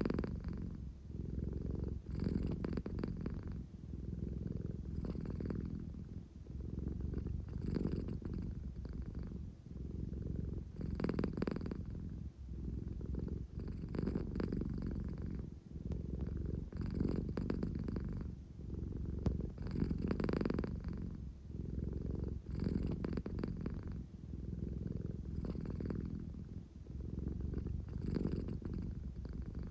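American Shorthair cat purring steadily at close range. The low, rumbling purr swells and eases about every three seconds as she breathes in and out.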